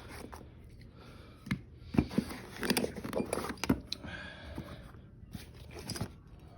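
Metal hand tools such as pliers being handled: a run of clicks, clinks and knocks with rustling, busiest two to four seconds in, with one more knock about six seconds in.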